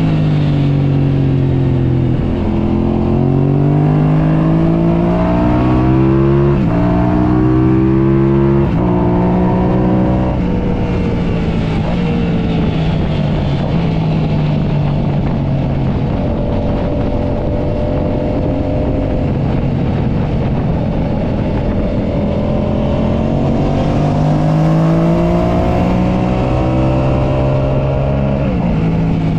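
Car engine being driven hard on a race track, its revs climbing and dropping sharply several times as it shifts gears, with a stretch of steadier running in the middle.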